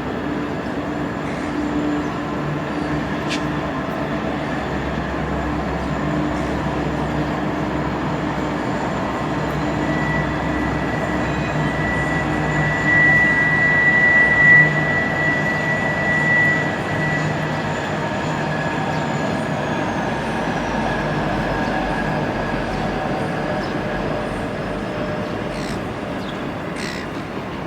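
A train running past on rail track: a steady rumble with low hums and a high whine that is loudest about halfway through. Near the two-thirds mark a very high tone slides down in pitch.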